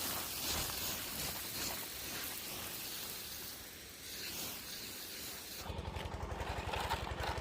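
Water spraying onto potted succulents, a steady hiss. Near the end it gives way to a fast, even pulsing mechanical sound.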